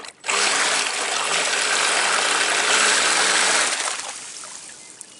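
Electric RC v-hull boat's motor and propeller throttled up, churning and spraying water for about three and a half seconds, then fading away as it winds down.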